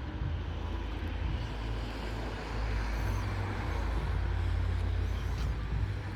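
DPKr3 diesel train running by, a steady low rumble with wheel and track noise that swells somewhat in the middle and eases near the end.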